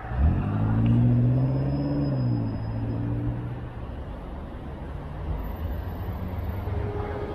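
A car engine accelerating close by: its pitch climbs sharply within the first half second, holds for a couple of seconds, then drops away and fades by about four seconds in, leaving a steady rumble of city traffic.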